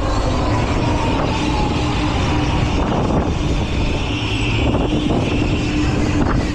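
Fairground thrill ride in motion, heard from on board: a loud, steady mechanical drone with a whine that slides slowly down in pitch over the first couple of seconds.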